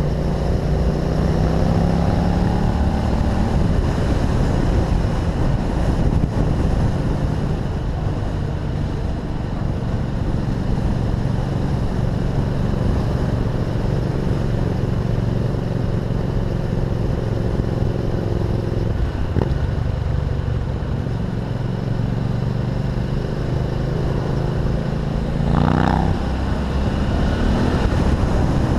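A vehicle engine running at low speed. Its note rises over the first few seconds, holds steady, and rises briefly again near the end.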